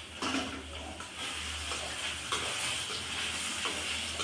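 Egg and onion sizzling in a steel kadai on a gas burner, with a few short clinks and scrapes of metal utensils against the pan.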